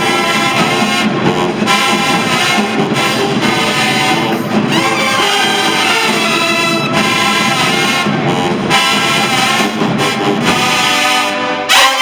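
Marching band brass section, trumpets and trombones, playing loudly and continuously in a hip-hop arrangement.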